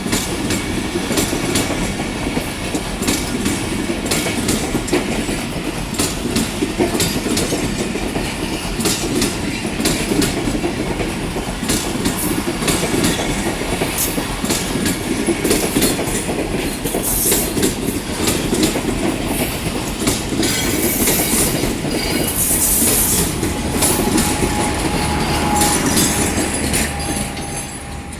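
Train running on the rails, its wheels clicking over rail joints amid a dense rumble. A faint steady whine comes in during the last few seconds, then the sound drops away at the very end.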